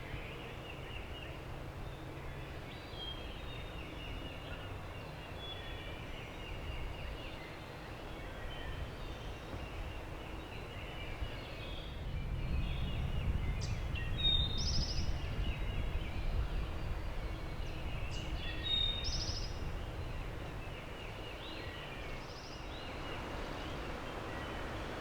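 Wild turkey gobbling in the distance, sounding muffled, a few times over steady wind noise, with small songbirds chirping throughout.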